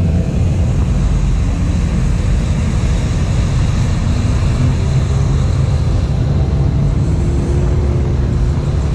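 Motor vehicle engines running with a steady low rumble as a car drives slowly by.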